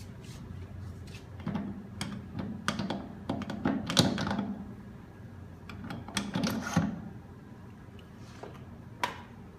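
Metal gearbox parts clicking and knocking as the brake servo drive gear is fitted onto a Hydramatic gearbox. There are two clusters of clicks, the loudest about four seconds in and another around six to seven seconds, then a single sharp click near the end.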